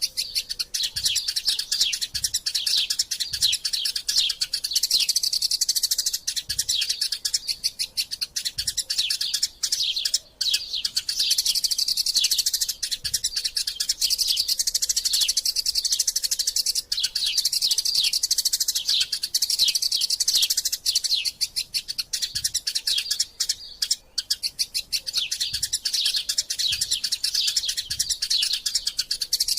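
Eurasian tree sparrows chattering in a fast, unbroken stream of harsh chirps, the excited calling of sparrows squabbling, with only a couple of momentary breaks.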